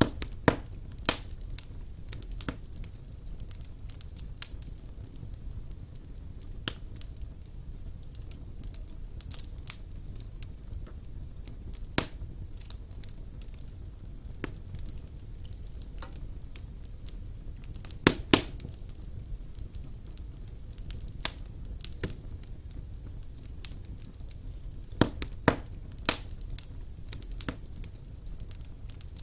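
Wood fire burning in a fireplace: a low steady rumble under irregular sharp crackles and pops from the burning logs, with a few louder snaps, including a quick cluster near the end.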